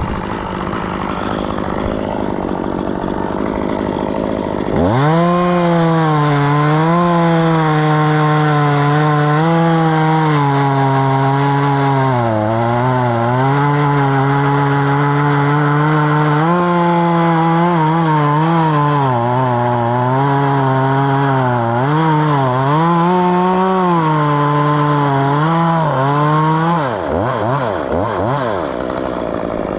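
Chainsaw cutting maple: about five seconds in the engine goes to full throttle, and its pitch sags and recovers several times as the chain bites into the wood. Near the end the throttle is released and the engine pitch drops away in a few quick falls.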